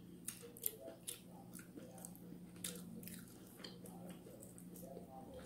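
Close-up eating sounds: chewing fried and barbecued chicken, with scattered small crackly clicks and smacks as the meat and skin are bitten and pulled apart. A faint steady hum sits underneath.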